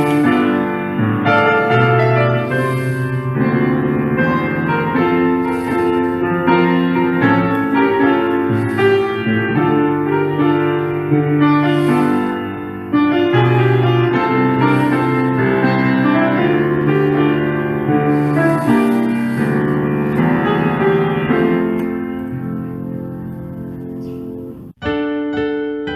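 Solo piano music, slow and chordal. It fades down near the end, breaks off abruptly, and a new piano passage with a brighter tone starts just before the end.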